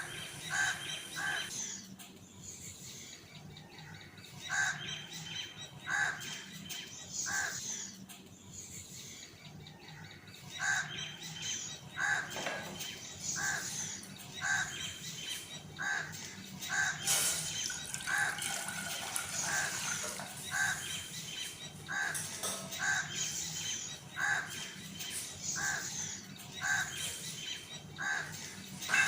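Birds calling: short calls repeated about once a second, with a few pauses, and higher chirps scattered among them.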